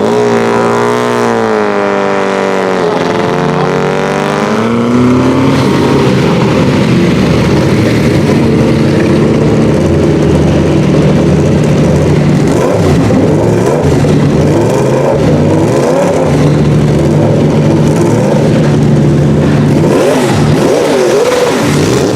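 Racing car engine running loudly, its pitch sweeping down and bending over the first few seconds, then settling to a steady note with wavering changes in revs through the second half.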